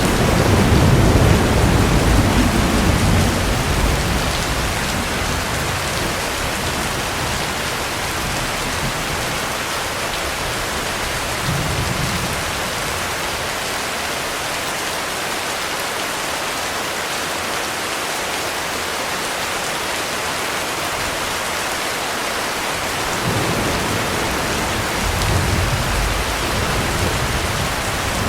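Heavy rain falling steadily, with low thunder rumbling at the start and fading over the first few seconds, a short rumble about twelve seconds in, and another rumble building near the end.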